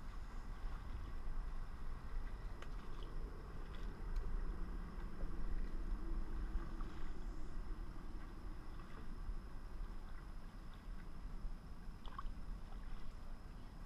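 Water sloshing and gurgling against a kayak's hull, as a steady noisy wash with a low rumble and a few faint knocks.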